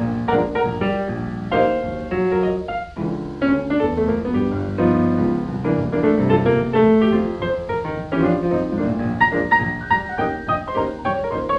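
Piano music, a quick stream of notes with a busy left hand, playing as a soundtrack.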